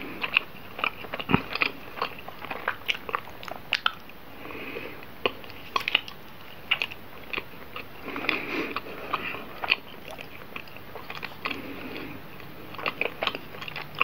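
Close-miked chewing of soft roti gembong bread with green tea cream filling: many irregular wet mouth clicks and smacks.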